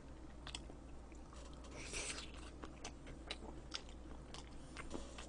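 Faint, close-up chewing of a mouthful of raw seafood: scattered soft wet clicks and mouth smacks, with a brief soft noise about two seconds in.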